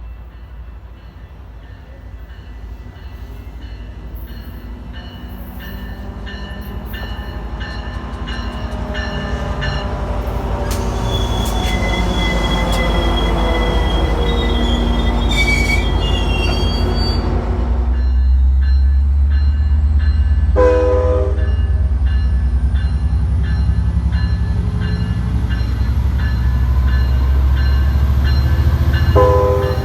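A train approaching and passing close by, its low rumble growing louder, with wheels squealing on the rails partway through. Two short horn toots, one a little after the middle and one near the end.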